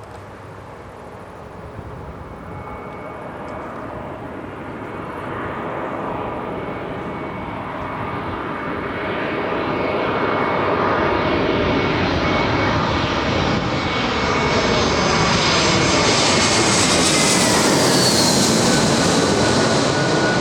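Jet airliner passing close by, its engine noise growing steadily louder, with a high engine whine that drops in pitch near the end as the aircraft goes past.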